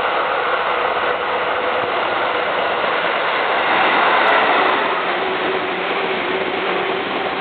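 Seibu 2000-series eight-car electric train passing through a station without stopping: a steady rush of wheel and rail noise, loudest about four seconds in as the cars run past close by.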